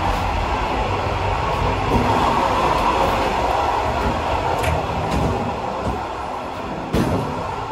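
Passenger train running along the track: a steady rumble and rush of wheels on the rails, with a few sharp clacks.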